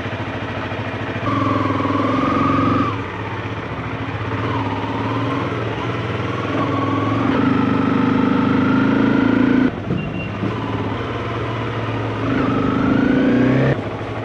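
Motorcycle engine pulling away and accelerating through the gears: the pitch climbs steadily, then drops sharply at each upshift, three times.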